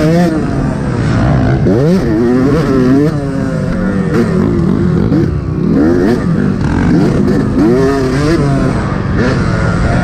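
Yamaha YZ125 two-stroke motocross bike engine revving up and dropping back again and again as the throttle is opened and closed, its pitch climbing and falling every second or so.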